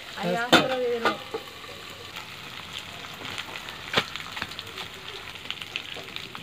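Meat frying in a covered steel pot on a gas stove: a faint, steady sizzling hiss with a few light clicks, one plainer click about four seconds in. A voice speaks briefly near the start.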